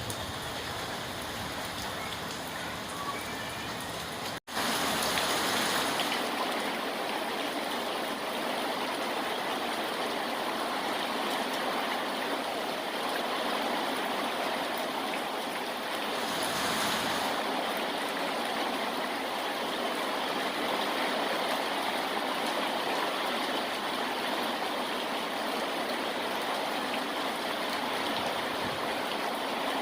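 Steady rainfall as an even hiss of water, with a split-second dropout about four seconds in, after which the rain is slightly louder.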